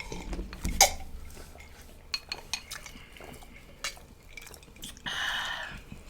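Scattered light clicks and clinks of cutlery and dishes at a meal, with a longer stretch of noise about five seconds in that lasts about a second.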